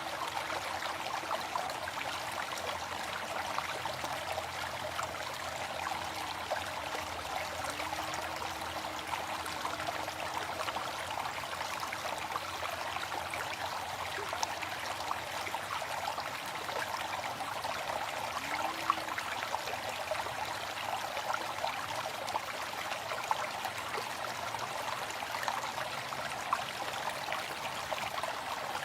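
Waterfall: water falling and splashing in a steady, even rush, with small sharper splashes here and there.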